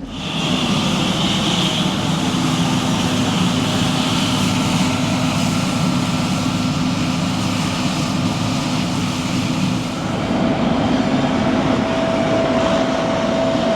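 Machinery running steadily: a continuous low hum under a broad noise, with a higher steady whine joining about ten seconds in.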